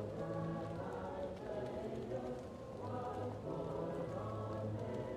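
Choir singing slow, held chords, muffled as if heard from another room, with a wood fire crackling faintly underneath.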